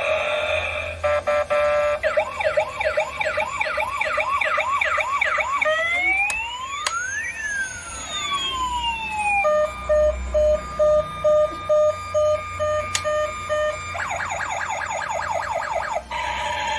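Electronic police-siren sounds through a small toy speaker, switching between patterns: a fast repeating yelp, then slow up-and-down glides, then a steady tone with beeps about twice a second, and a fast yelp again near the end.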